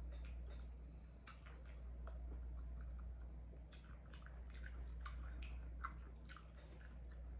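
Chewing and wet mouth sounds of someone eating shrimp boil, with scattered small clicks and smacks over a steady low hum.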